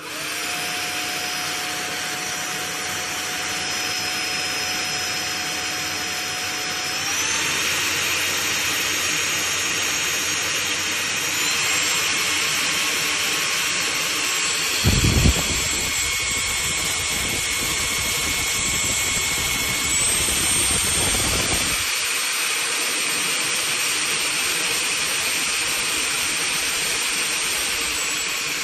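Cordless stick vacuum cleaner motor running with a steady high whine that steps up in pitch three times, about a quarter, two-fifths and two-thirds of the way through. Near the middle a low rumble joins it for several seconds, opening with a brief loud knock.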